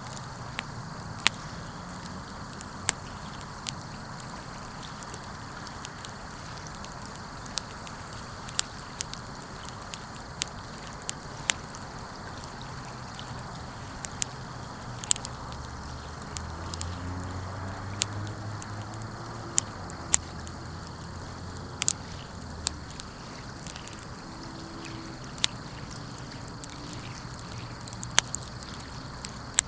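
Wood fire crackling: irregular sharp pops, a couple of dozen, over a steady hiss. A low hum rises and fades in the middle.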